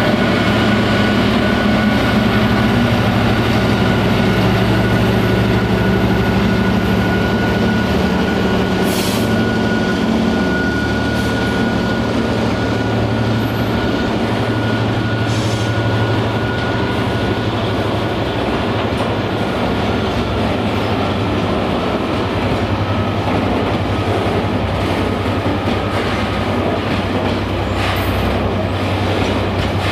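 A train rolling past at close range: a steady rumble of wheels on rail, with a thin high tone held over it that fades slightly in the second half and a couple of sharp clicks.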